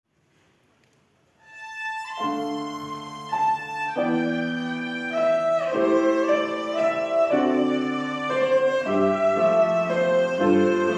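Violin and piano duet beginning: after a short silence a violin note enters, then sustained piano chords join about two seconds in, with the harmony changing every second or so under the melody.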